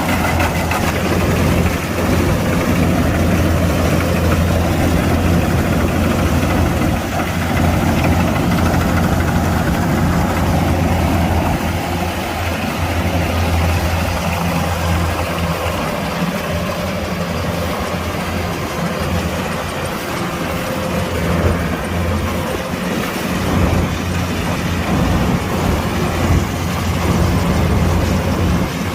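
Kubota DC-105X combine harvester's diesel engine running steadily with a low drone. It eases slightly for several seconds midway, then comes back up.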